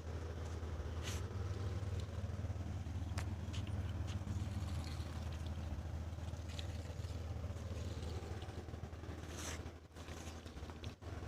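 An engine running with a steady low rumble and scattered clicks and knocks. It falls away about ten seconds in.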